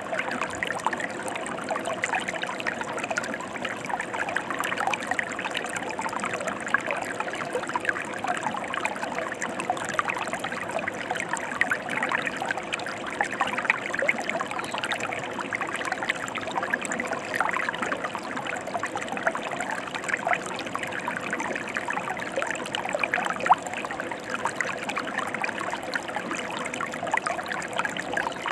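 Mountain river flowing steadily: a continuous rush of moving water full of small splashes and trickles.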